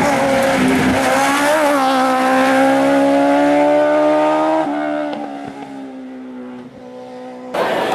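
Hillclimb race car engine accelerating hard, its note climbing steadily, then dropping sharply at a gear change about four and a half seconds in and fading as the car pulls away. The sound cuts off abruptly near the end.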